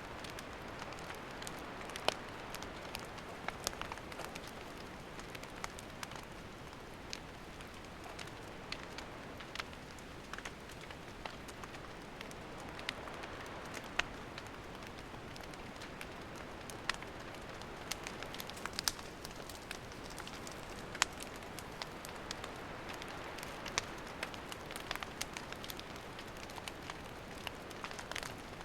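Wood campfire burning: a steady hiss with irregular crackles and pops, a few louder snaps scattered through.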